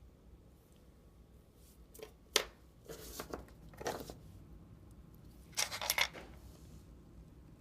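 Small metal parts of a Leibinger numbering machine clicking and scraping as it is handled during reassembly: a sharp click about two and a half seconds in, short rattling scrapes after it, and a cluster of clicks near six seconds.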